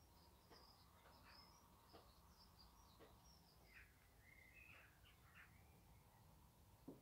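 Faint birdsong: small birds chirping and twittering in short high calls and quick rising and falling notes, with a few soft taps.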